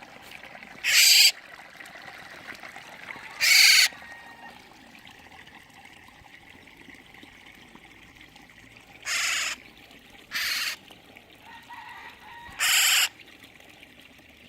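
Eurasian golden oriole giving short, harsh, rasping calls, five in all, spaced irregularly a second to several seconds apart.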